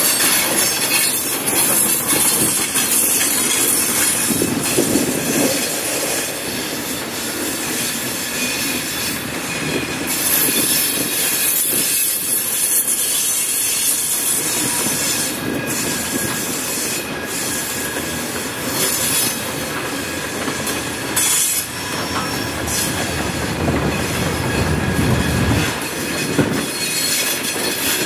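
Train cars rolling past steadily, wheels squealing and clicking over rail joints.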